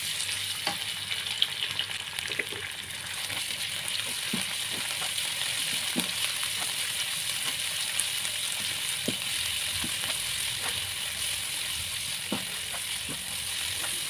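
Chicken fillet sizzling steadily in hot oil in a frying pan as it is stir-fried, with scattered clicks of the utensil against the pan.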